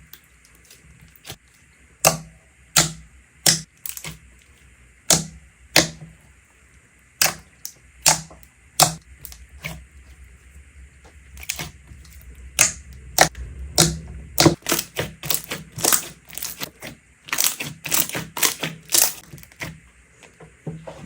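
Slime being squeezed and poked, giving a run of sharp clicking pops, spaced out at first and coming much faster from about halfway through.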